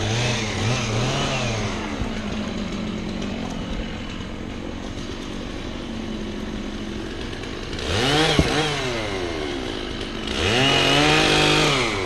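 Stihl MS 660 two-stroke chainsaw idling, blipped in a couple of quick revs at the start. It revs up briefly again about eight seconds in, then is held at high revs for nearly two seconds near the end.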